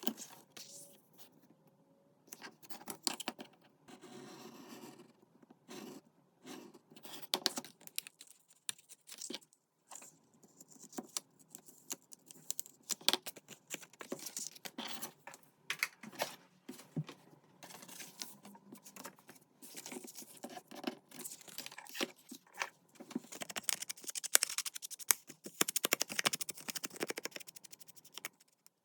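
Paper and cardstock being handled at a craft desk: irregular rustling, scraping and crinkling with sharp taps and clicks, busiest near the end.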